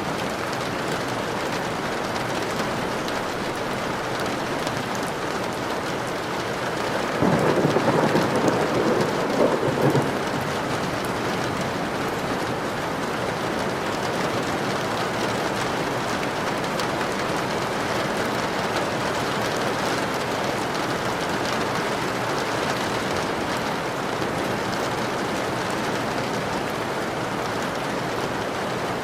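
Steady rain falling, with a clap of thunder about a quarter of the way in that rumbles for about three seconds before the rain alone continues.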